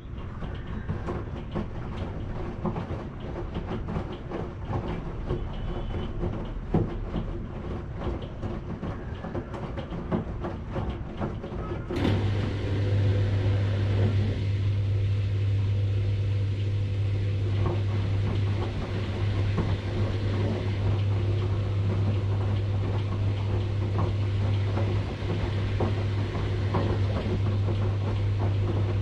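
Washing machine running: irregular knocking and clattering of the drum turning for about twelve seconds, then a steady low electric hum from the machine starts abruptly and carries on under the churning.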